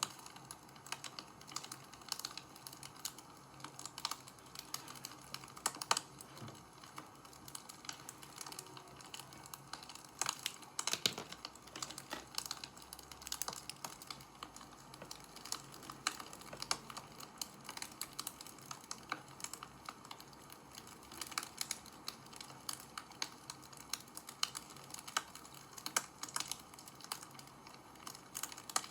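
Wood fire crackling, with a steady run of irregular small snaps and pops.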